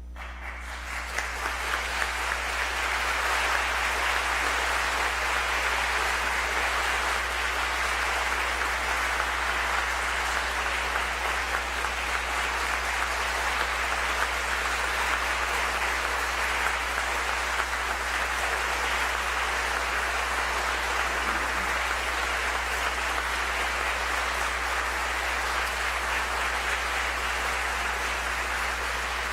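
Congregation applauding: many hands clapping, building over the first couple of seconds and then holding steady.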